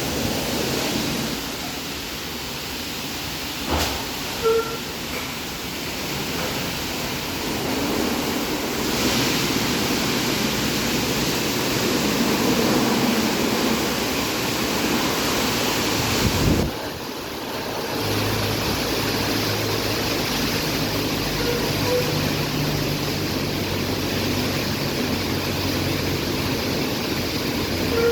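Istobal M12+ rollover car wash at work: a steady rush of water spray and machinery. It cuts off suddenly about two-thirds of the way through, then picks up again with a steady low motor hum beneath it.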